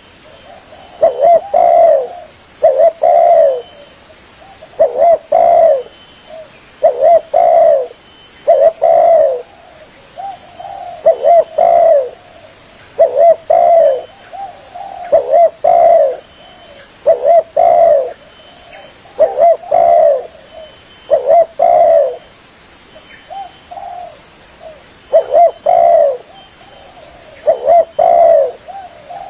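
Spotted dove (tekukur) cooing, played as a lure call. Loud phrases of two or three cooing notes repeat about every two seconds.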